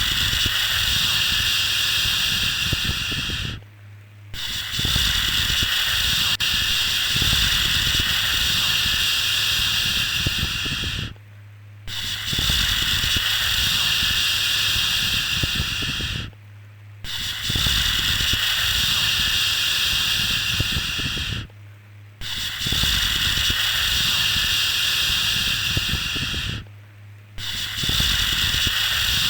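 Long 'shhh' shushing sound for soothing a baby, repeated: each shush lasts about five to seven seconds, with a short break of under a second between them, five breaks in all. A steady low hum runs underneath.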